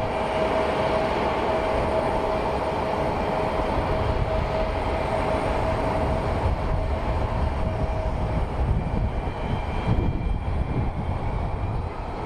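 Jet aircraft engines running with a steady whine over a low rumble; the whine fades out about two-thirds of the way through while the rumble carries on.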